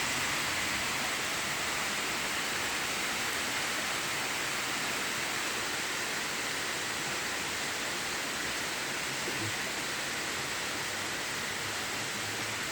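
Heavy rain shower falling, a steady even hiss with no let-up.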